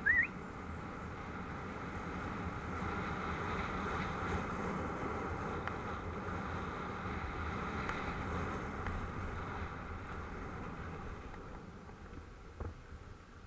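Wind rushing over the microphone with tyre rolling noise as a Specialized Enduro mountain bike rides a dirt track, building up and then fading near the end. A brief high rising squeak right at the start.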